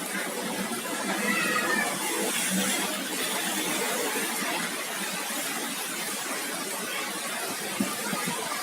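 Heavy rain mixed with hailstones falling, a dense steady patter, with a sharper knock near the end.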